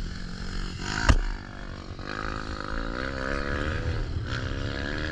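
Dirt bike engines running out on the motocross track, their pitch rising and falling, over a low rumble. There is a sharp knock about a second in.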